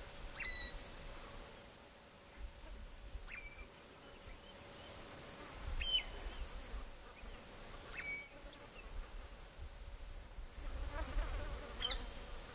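Dry bush ambience: a faint, steady insect hum with five short, high bird chirps spaced two to four seconds apart, and a light low rumble of wind.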